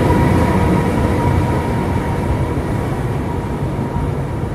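Trenitalia electric-locomotive-hauled passenger train rolling out along the platform, a dense rumble of wheels on rail with a thin steady high whine. The rumble eases off slowly as the locomotive moves away.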